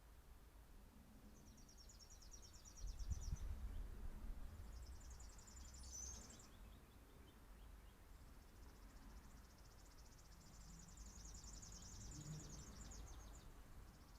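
Faint songbirds calling, with high, rapid trills three times, the last one long. Under them a low rumble, loudest a few seconds in.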